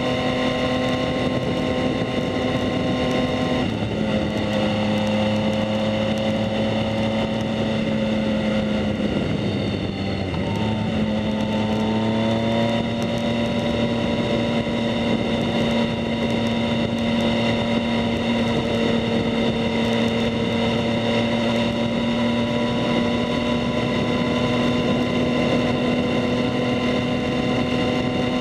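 2019 Yamaha MT-09's inline three-cylinder engine running through a Two Brothers S1R full exhaust while riding at a steady cruise. The engine note drops about four seconds in, sags further around ten seconds in, then climbs back and holds steady.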